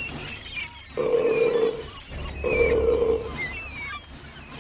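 Two long, deep cartoon burp sound effects, about a second and a half apart, with short seagull cries over them.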